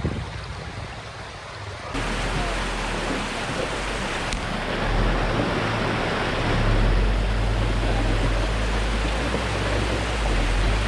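Off-road truck engine running with a low steady hum under a loud, even rushing noise; the sound changes abruptly about two seconds in.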